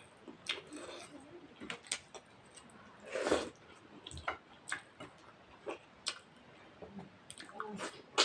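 A person eating rice and mutton curry up close: scattered wet chewing and lip-smacking clicks, with one louder, longer eating sound about three seconds in.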